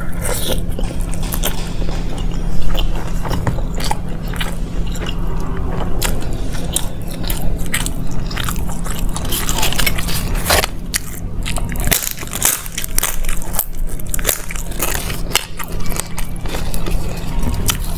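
Close-miked biting and chewing of flaky lachha paratha with paneer bhurji: irregular crunches and wet mouth clicks, over a steady low hum.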